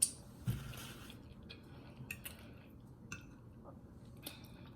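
Close-miked eating sounds: soft, scattered wet clicks and smacks of chewing, with a brief low thump and rustle about half a second in.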